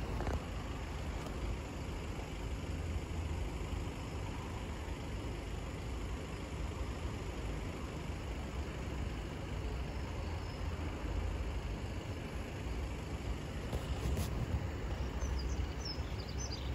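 Steady low rumble of an approaching LNER Azuma train, growing louder over the last few seconds, with a few short bird chirps near the end.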